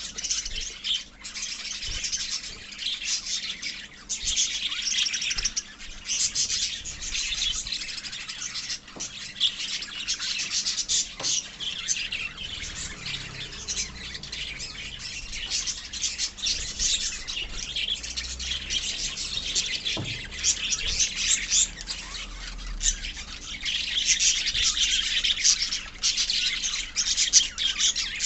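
A colony of lovebirds chattering and chirping, many birds calling at once in a dense, continuous twittering of short high-pitched calls.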